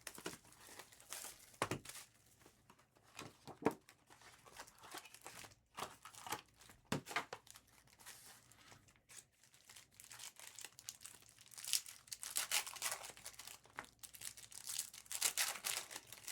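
Trading card pack wrappers being torn open and crinkled, with cards handled: scattered taps and clicks at first, then longer stretches of rustling and tearing about three quarters of the way in and near the end.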